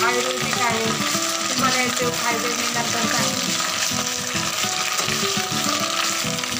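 Fresh curry leaves sizzling steadily in hot oil in a kadhai as a spatula stirs them, with instrumental background music underneath.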